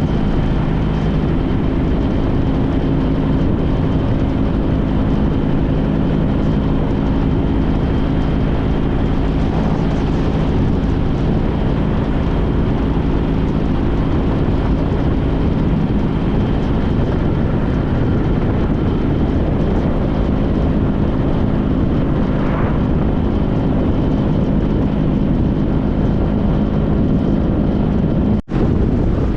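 Honda CTX1300 V4 engine running steadily under way, mixed with road and wind noise on the microphone. The audio cuts out for a split second near the end.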